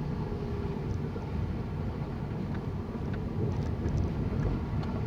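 Steady low rumble of a car's engine and road noise heard inside the cabin while driving, with a few faint light ticks.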